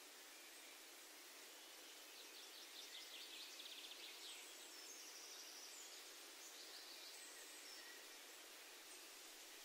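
Faint birdsong in a garden: a rapid trill about two seconds in, followed by several short, high whistled notes, over a steady low hiss of outdoor ambience.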